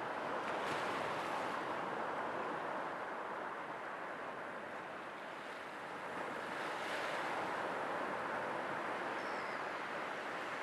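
Sea waves washing onto the shore in a continuous rushing surf, easing off about halfway through and building again as the next wave comes in.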